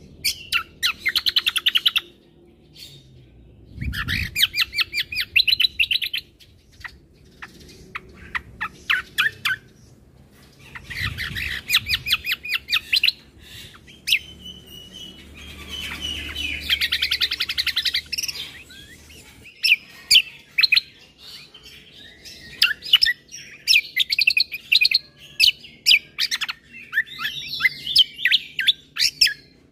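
Kecial kombo (cucak kombo) singing in fast chattering trills, bursts of a second or two coming every few seconds, then running almost unbroken near the end. There is a low dull sound under two of the early bursts.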